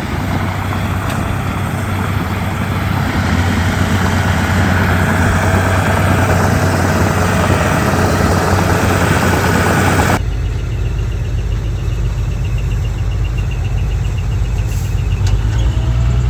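Diesel engine of a Komatsu D31P crawler bulldozer running steadily. About ten seconds in, the sound cuts abruptly to a deeper engine note with a fast, even clicking, and an engine revs up near the end.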